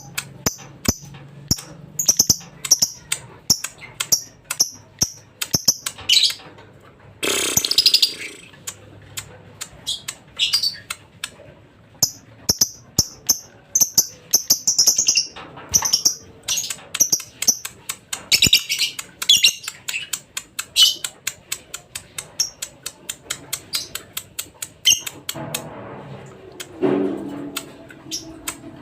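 Lovebird singing: a long, rapid chatter of short, sharp chirps and clicks, with a few longer runs of chattering.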